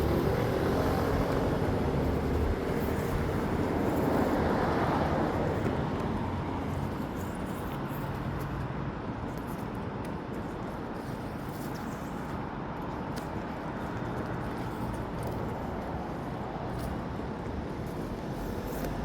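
City street traffic: a steady hum of vehicles on the road, with one louder vehicle passing during the first five seconds or so.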